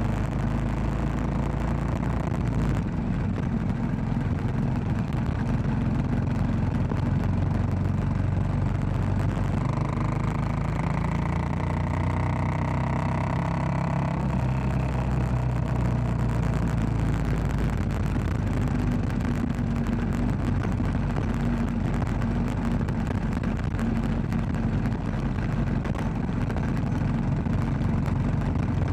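Royal Enfield Classic 500's single-cylinder engine running steadily while riding, with its note shifting for a few seconds around the middle.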